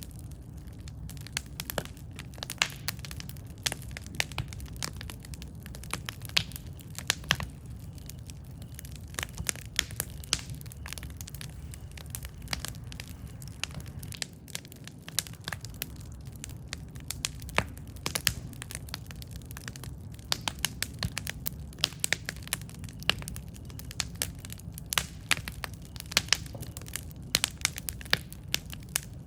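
Campfire burning: wood crackling and popping in many irregular sharp snaps over a low, steady rumble of flame.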